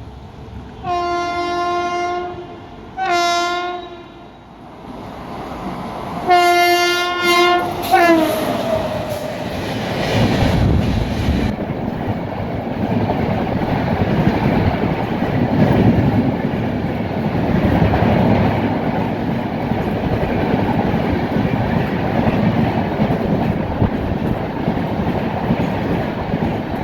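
Indian Railways train sounding its horn three times, one long, one short and one long, the last blast dropping in pitch as the train passes at speed. Then comes a loud rush of the train going by, with wheels clattering over the rail joints.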